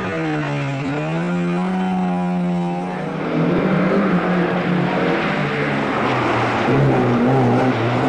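Rally-tuned 1600 cc four-cylinder engine of a Lada 2103 rally car running hard at high revs. Its note drops and climbs back twice in the first three seconds. After that it goes on louder and rougher, under more noise.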